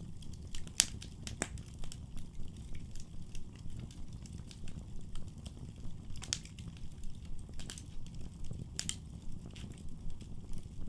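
Firewood burning in a fireplace: a steady low rumble of flames with scattered crackles and several sharp pops, the loudest about a second in.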